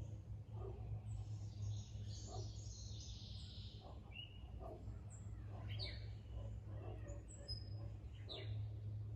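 Wild birds chirping, with several short, high, downward-sweeping calls and a brief rustling, trilling patch before them, over a steady low hum.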